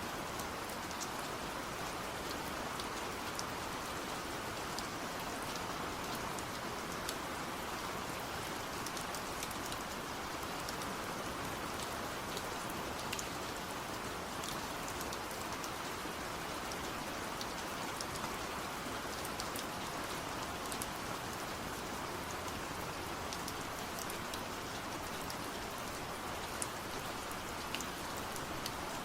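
Steady rain falling, a constant hiss with many small drop ticks throughout.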